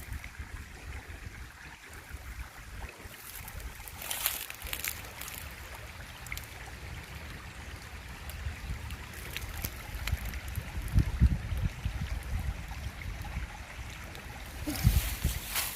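Wind buffeting an outdoor microphone: a low, uneven rumble that swells in gusts, strongest about ten seconds in and again near the end, over a faint steady rushing hiss, with a few brief crackles.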